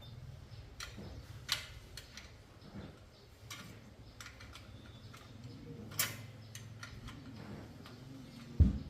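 Irregular light clicks and taps of hand-tool work on a bicycle over a low steady hum, with a louder knock near the end.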